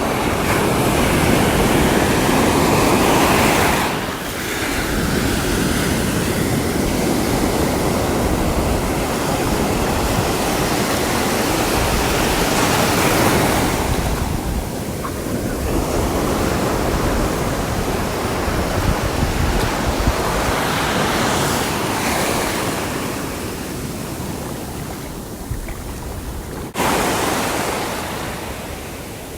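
Sea waves breaking and washing on the shore, surging and receding in slow swells, with an abrupt jump in level near the end.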